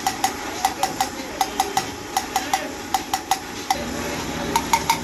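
Rapid, irregular metallic tapping: sharp strikes on metal, about three to four a second, each with a short ring, pausing for about a second before a last few strikes near the end, over a steady background hum.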